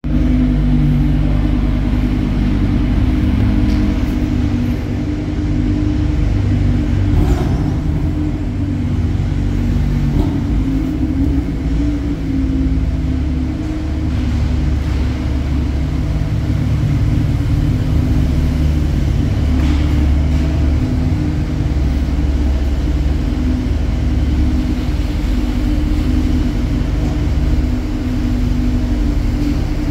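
Sports car engines running at idle and low speed in an underground car park: a steady deep rumble that holds at much the same level throughout, with no sharp revs.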